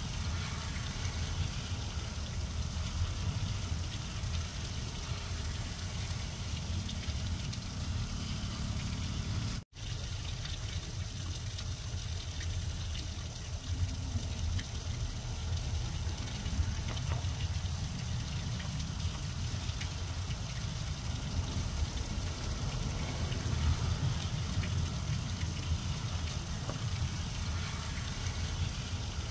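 Steady rain falling on grass and weeds, a continuous hiss with a low rumble underneath; the sound drops out for an instant about ten seconds in.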